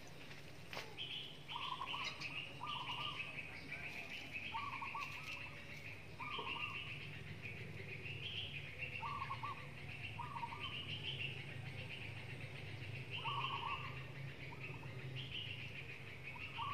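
Birds chirping in short calls that repeat about once a second, over a steady low hum, with one sharp click about a second in.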